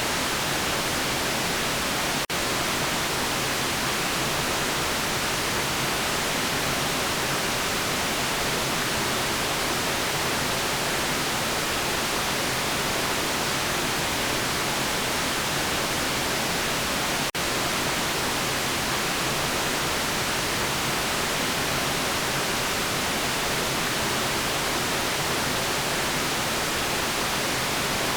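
Steady white noise, an even full-range hiss weighted toward the high end. It drops out for an instant twice, about two seconds in and again about seventeen seconds in.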